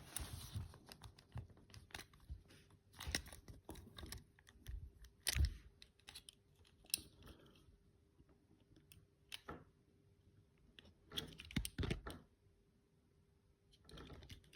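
Scattered small clicks, taps and knocks of hands handling a model locomotive and its small parts, with the loudest tap about five seconds in and a quick run of taps near the end.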